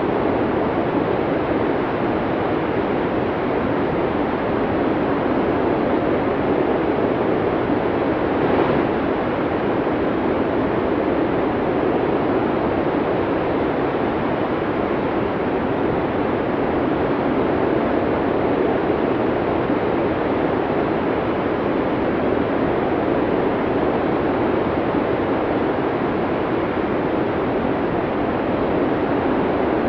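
Snowstorm wind blowing steadily, an unbroken rushing noise.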